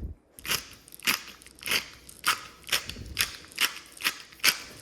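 Pepper mill grinding black peppercorns onto a steak. The mill gives a steady run of short crunching, ratcheting turns, about two a second.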